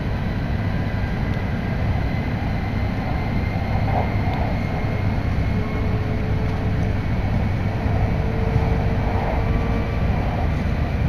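Hokkaido Shinkansen train running at speed, heard from inside the passenger cabin: a steady, deep rumble with a faint high whine over it.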